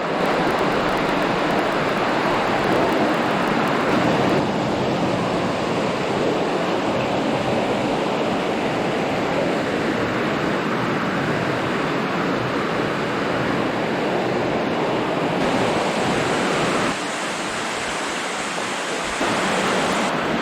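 Steady rushing of creek water flowing through a stream tunnel. Its tone shifts a few times, brightening about four seconds in and dulling after about fifteen seconds.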